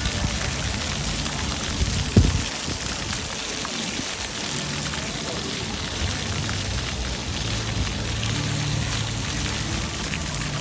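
Steady hiss and patter of falling or running water, with one sharp thump about two seconds in.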